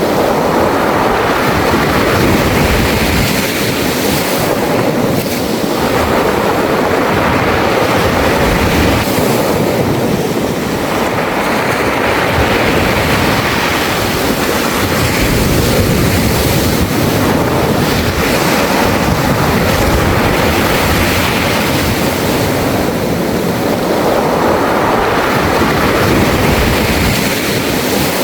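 Sea waves breaking and washing over a beach of round pebbles (mongdol), the surf swelling and easing every several seconds, with the rattle of stones rolled by the water.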